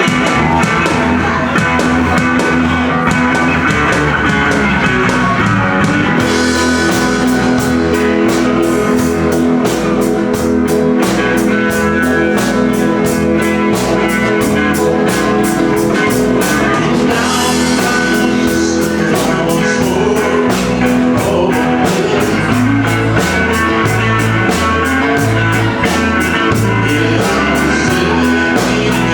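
Live country-rock band playing: electric guitar, bass and drum kit keeping a steady beat. The cymbals come in fuller about six seconds in.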